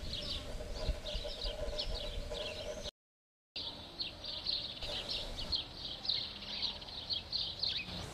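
Small birds chirping busily, many short high chirps one after another, with a faint steady hum under the first three seconds. The sound cuts out completely for about half a second about three seconds in.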